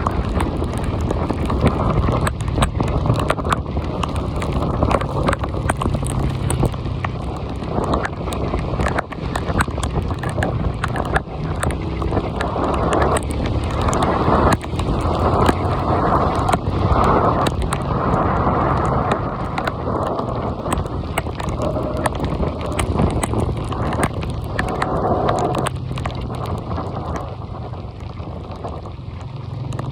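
Rain falling, with drops hitting close to the microphone as many sharp clicks over a dense, muffled hiss.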